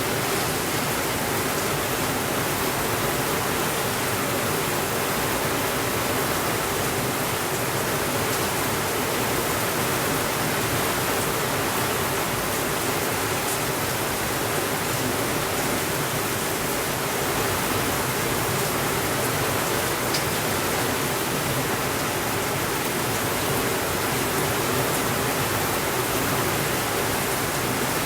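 Steady, even rainfall with no change in level.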